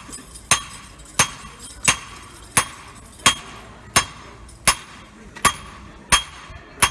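Blacksmith's hammer striking hot steel on an antique anvil in a steady rhythm, about ten blows at a little under one and a half a second, each with a bright metallic ring. This is drawing out the steel into a bar for a bracelet band.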